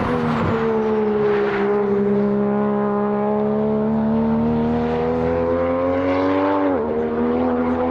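Race car engine pulling hard through a long gear, its pitch climbing slowly. About seven seconds in comes a quick upshift, with a sharp drop in pitch, and then it climbs again.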